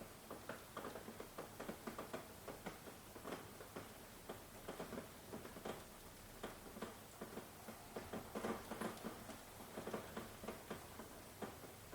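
Rain falling, heard as many separate drops pattering and ticking at an irregular pace, a little louder about two-thirds of the way through. No thunder.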